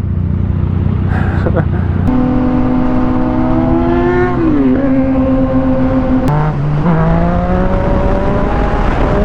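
Motorcycle engine pulling away and accelerating through the gears: steady low running for about two seconds, then the pitch jumps up, climbs and drops sharply twice at upshifts, and rises slowly again near the end, over constant wind noise.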